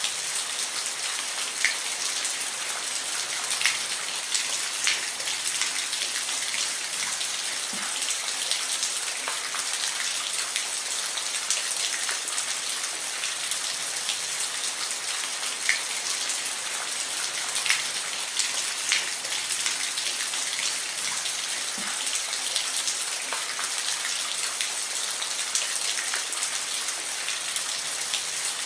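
Steady rain falling, an even hiss with individual drops ticking sharply on a surface every second or so.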